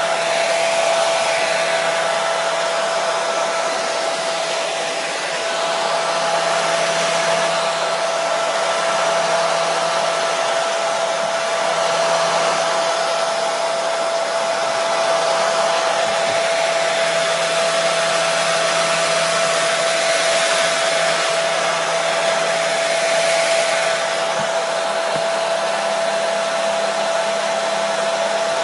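Hair dryer running steadily: a loud, even rush of air with a constant whine from its motor, used as white noise to settle a colicky baby.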